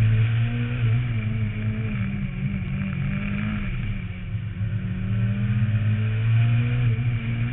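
Renault Mégane rally car's engine running hard at speed on a rally stage, heard from a roof-mounted camera. The revs sag about halfway through, then climb again.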